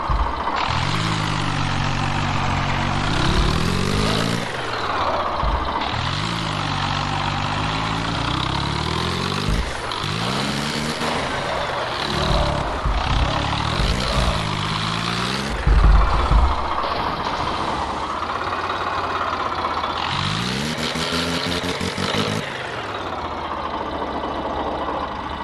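Tractor diesel engine revving hard and easing off, rising and falling in pitch about five times as it pulls under load. A short loud low thud comes about two-thirds of the way through.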